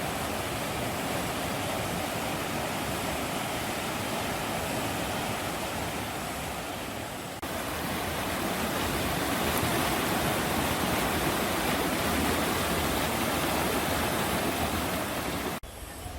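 Mountain stream rushing steadily over rocks. About seven seconds in the sound breaks off abruptly and resumes a little louder, then drops suddenly shortly before the end.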